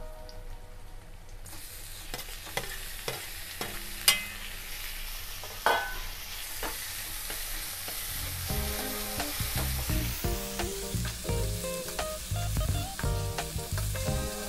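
Onions and chopped tomatoes sizzling in hot oil in a metal kadhai while a metal spoon stirs and scrapes the pan, with many sharp clicks of the spoon on the metal and two louder knocks a few seconds in.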